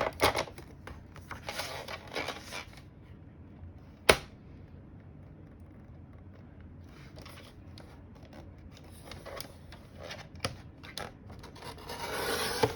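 Cardstock being measured and cut on a paper trimmer: scattered clicks and paper rustles, one sharp click about four seconds in, and a longer swish of the cut near the end.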